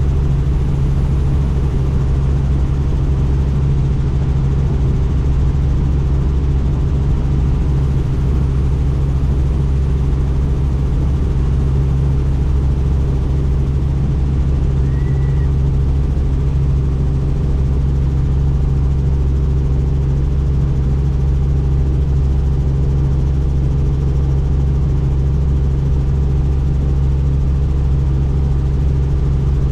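Helicopter in steady flight, heard from on board: the rotor and engine make a loud, steady low drone with a rushing noise over it.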